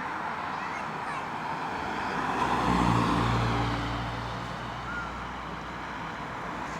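A truck's diesel engine passes by, its low note swelling about two and a half seconds in, loudest near three seconds and fading by about five seconds, over a steady background hubbub.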